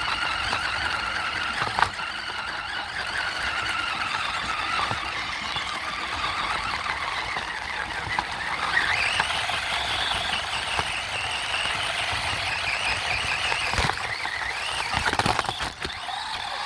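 A radio-controlled truck's motor and drivetrain whining, the pitch rising and falling as it speeds up and slows, climbing highest about halfway through. A few sharp clicks or knocks come through, the clearest about two seconds in and several near the end.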